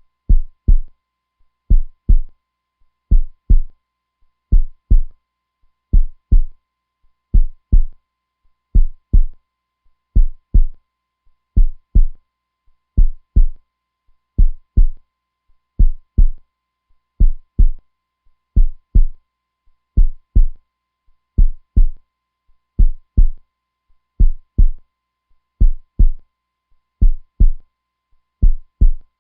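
Heartbeat, each beat a deep double thump (lub-dub), repeating in a slow, steady rhythm of about forty beats a minute.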